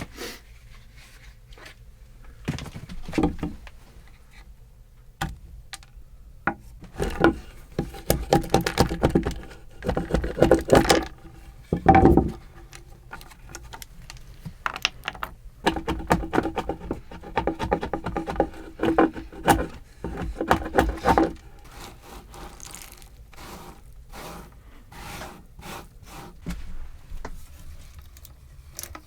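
Wood being worked with a hand tool: two long runs of quick, even scraping strokes with a faint ringing tone through them, separated by a short pause. Scattered knocks and scrapes come before and after.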